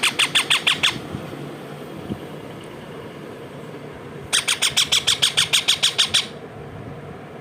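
Baby parrot squawking in fast, evenly spaced harsh calls, about seven a second: one run stops about a second in, and a second run of about two seconds starts a little past the middle.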